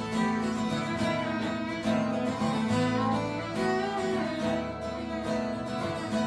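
Live folk band playing an instrumental break: strummed acoustic guitar with a fiddle playing the melody over it.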